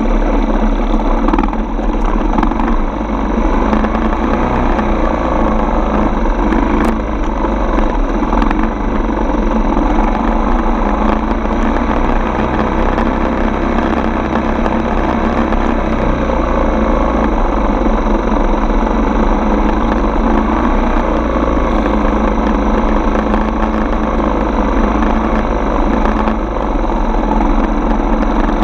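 Dirt bike engine running steadily, without big swings in speed.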